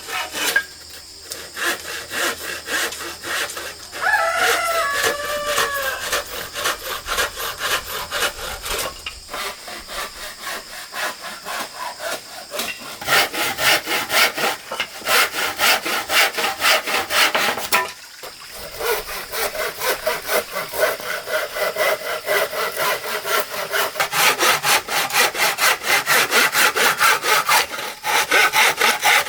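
A hand saw cutting through wood in rapid, even back-and-forth strokes, pausing briefly a few times.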